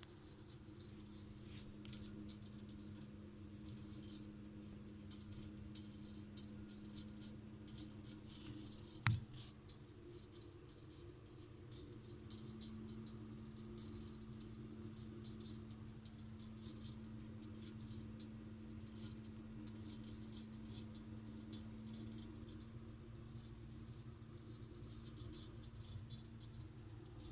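Boiler pipe ticking: many faint, irregular ticks and clicks over a steady low hum, with one sharper, louder click about nine seconds in.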